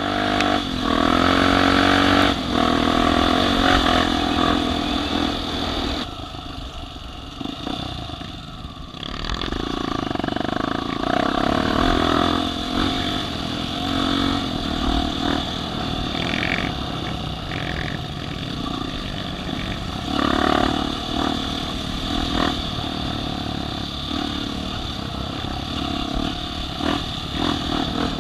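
Off-road vehicle engine revving and easing off repeatedly as it works under load, loudest in the first few seconds, dropping back about six seconds in and then surging again.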